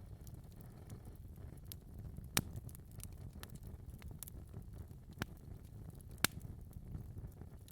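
Wood fire crackling in a fireplace: a low steady rumble with scattered sharp pops, the loudest about two and a half seconds in and again just after six seconds.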